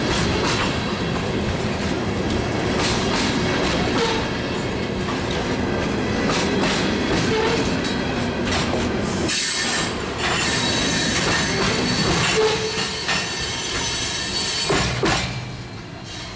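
Loaded covered hopper cars of a freight train rolling past close by. Their wheels click over a bolted rail joint, with some wheel squeal. The sound fades near the end as the train pulls away. Wind buffets the microphone.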